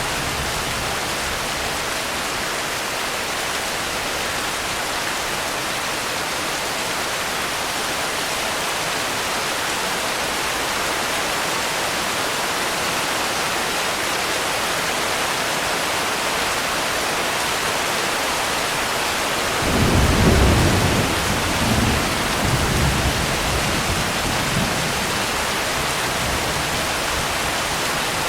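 Steady rain, with a low clap of thunder breaking in about two-thirds of the way through, loudest at first and rolling on in weaker rumbles for a few seconds.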